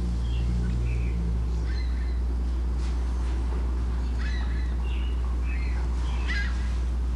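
A steady low hum with scattered short bird chirps.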